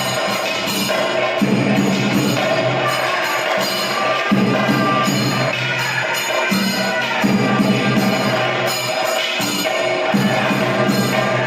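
Kerala temple percussion: chenda drums beaten in a fast, unbroken roll with elathalam hand cymbals clashing over them, accompanying a Muthappan vellattam. The low drum strokes swell in waves every second or two while the cymbals ring steadily.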